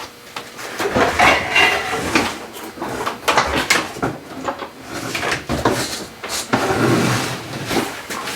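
Hand and power-tool work on a broken bolt in an aluminium oil filter housing: irregular bursts of metallic scraping and clicking, in short spurts about every half second to a second.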